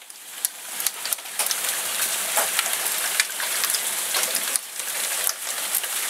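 Heavy rain pouring down and spattering on surfaces: a dense, steady hiss peppered with many sharp ticks of drops striking.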